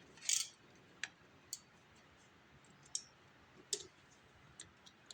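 Light, irregular clicks and taps of small parts and tools being handled, one every half second to a second or so, after a brief hiss at the start.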